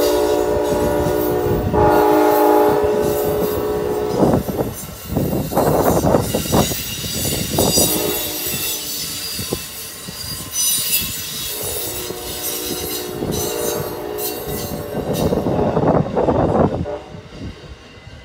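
A train horn blows a loud chord for about four seconds at the start and sounds again more faintly around the middle. An Amtrak passenger train rolls past throughout, its wheels clicking over rail joints with some squeal.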